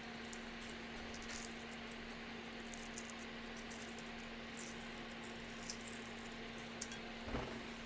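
Soup simmering in a pot with light, irregular crackles over a steady electric hum, and one soft knock near the end.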